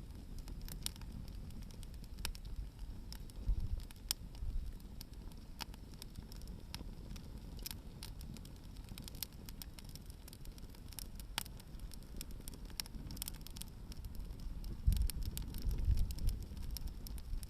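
Hardwood firewood burning in an open fire, crackling with scattered sharp pops, over a low rumble that grows louder near the end.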